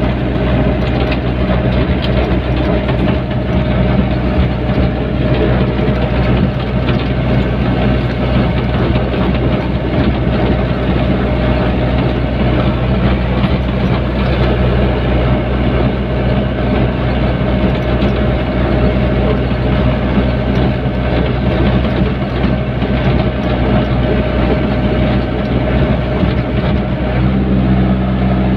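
Hyundai backhoe's diesel engine running steadily under work, with a steady hum; its note changes near the end.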